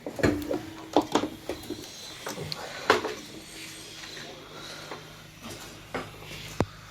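A few sharp metallic clanks and knocks of tools and parts being handled during washing-machine reassembly: a cluster about a second in, the loudest near three seconds, and a last one near the end, over a faint steady hum from about halfway.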